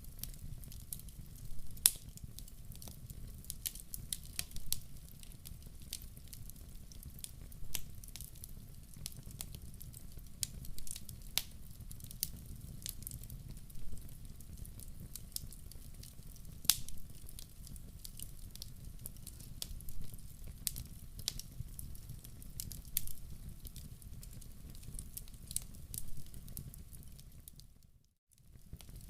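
Wood fire crackling in a fireplace: irregular sharp pops and snaps over a low steady rumble. The sound drops out briefly about a second before the end.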